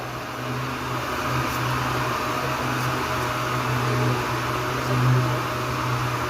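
Power sander running steadily on a car body panel, sanding down epoxy primer with 240-grit paper: a continuous motor hum under an abrasive hiss, swelling slightly now and then as it is pressed and moved.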